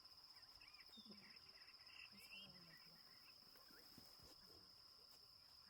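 Faint, steady high-pitched trilling of crickets, with faint distant voices.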